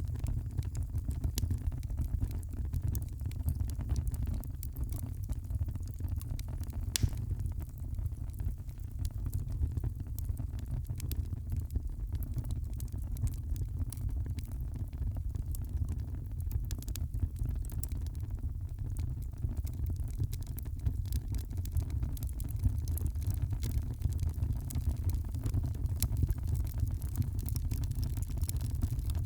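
Fire burning in a fireplace: a steady low rumble with frequent small crackles and pops, and one sharper pop about seven seconds in.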